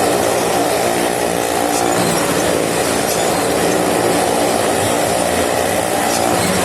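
Motorcycle and car engines running steadily at high revs together as they circle the wall of a well-of-death stunt ride, with a continuous rumble.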